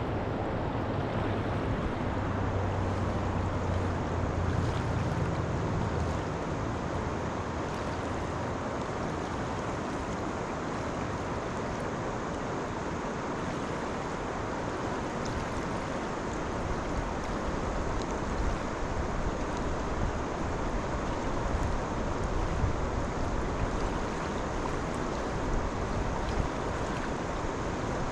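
Steady rushing of flowing river water, with low wind rumbles on the microphone at times.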